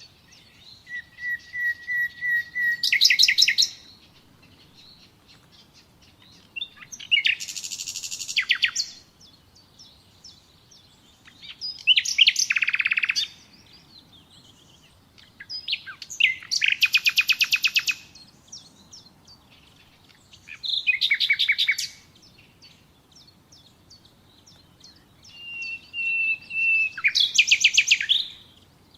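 Nightingale singing in separate phrases a few seconds apart, each a burst of fast repeated notes. The first and last phrases open with a steady whistle that swells into a loud rapid trill.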